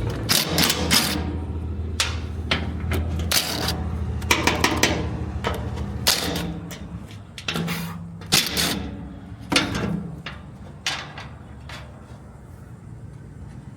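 Irregular metallic clinks and knocks of hand tools working on a truck's removed fuel tank to get at the fuel pump.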